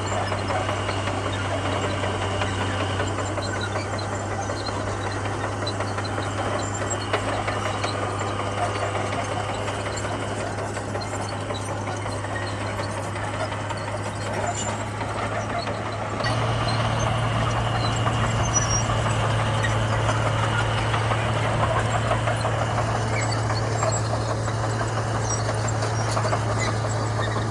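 Komatsu bulldozer's diesel engine running steadily with a low hum and mechanical clatter, turning abruptly louder about sixteen seconds in.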